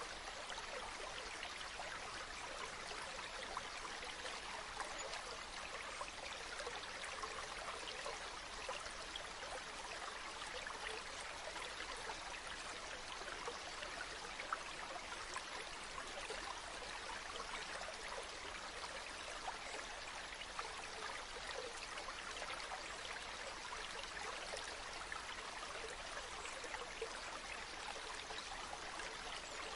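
Steady running water: an even rush that holds the same level throughout.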